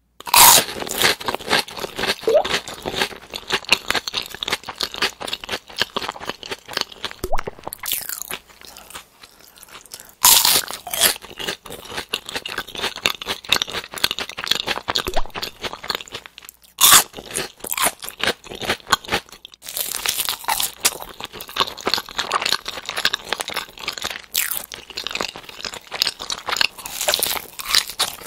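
Close-miked crunching and chewing of crispy deep-fried potato bites: continuous crackly chewing with several loud crisp bites, near the start and again at about 10, 17, 20 and 24 seconds in.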